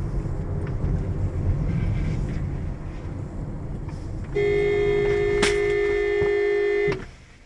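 Low rumble of a moving vehicle, then a car horn blown in one steady honk for about two and a half seconds, starting a little past halfway, with a single sharp click during the honk.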